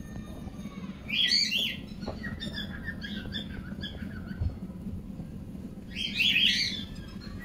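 Birds chirping: two busy bursts of chirps, about a second in and again near the end, with scattered single chirps between, over a steady low hum.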